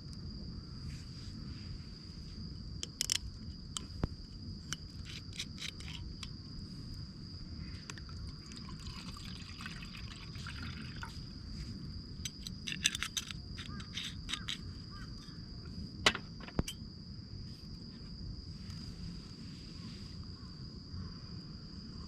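An insect, a cricket-like trill, singing one steady high unbroken note over a low outdoor rumble, with scattered sharp clicks and crackles in bunches: a few about three seconds in, a run around five seconds, a cluster near thirteen seconds, and a loud single click about sixteen seconds in.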